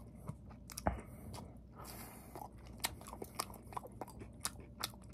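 Close-miked chewing of egg-battered fried sausage slices (sausage jeon): soft wet mouth smacks and small clicks at an uneven pace, several a second, with one louder smack about a second in.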